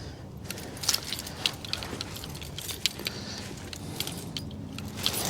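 Irregular light clicks and rustling of handling as a face mask is being put on.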